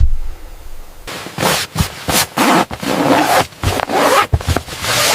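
A rapid, irregular series of scraping and rubbing noises, several short strokes a second, starting about a second in.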